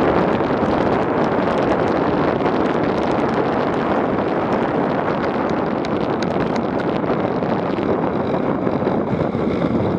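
Steady rush of wind buffeting an action camera's microphone while on the move, with a few faint clicks and rattles.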